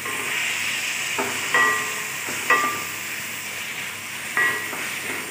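Chopped onions and tomatoes sizzling in hot oil in a kadai as they are sautéed, with a spatula scraping against the pan with a brief ringing clink a few times as they are stirred.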